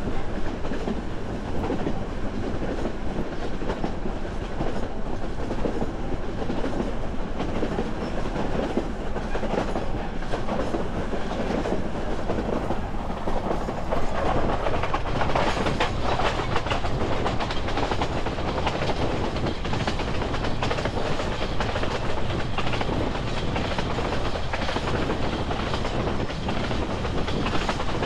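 Narrow-gauge passenger train coach rolling along the track: a steady rumble and clatter of wheels on rails, a little louder from about halfway.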